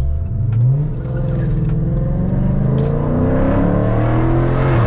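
Dodge Scat Pack's 392 HEMI V8 accelerating hard: the revs rise quickly, drop at an upshift about a second in, then climb steadily in a long pull before dropping again at the end.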